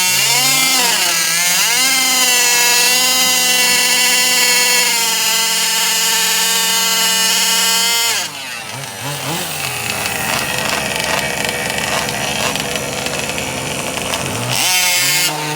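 Gas RC car's two-stroke engine revving up and holding at full throttle for about six seconds, then backing off suddenly. A quieter engine sound follows, and near the end an engine revs up again.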